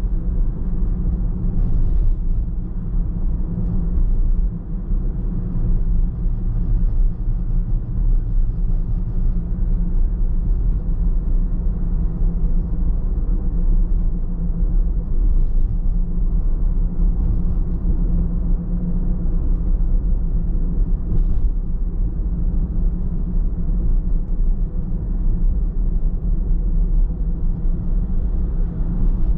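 Steady low rumble of a car driving along a road, with tyre and engine noise.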